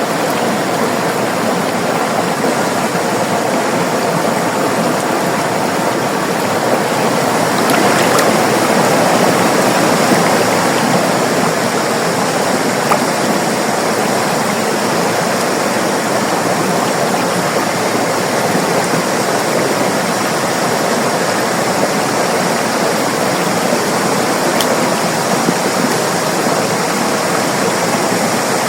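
River water flowing and rushing steadily, a continuous dense rush that swells slightly about eight seconds in.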